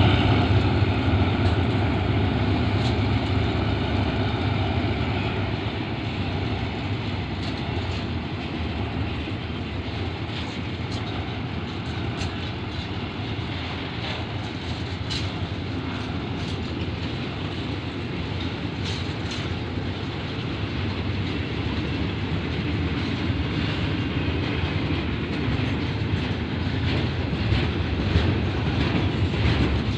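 Railway fuel tank wagons rolling past: a steady rumble of steel wheels on the rails, with scattered sharp clicks as the wheels cross the rail joints.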